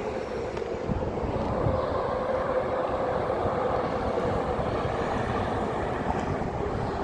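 Busan Metro Line 3 subway train running past on the river bridge: a steady rumble of wheels on rails with a humming tone, growing a little louder about a second in.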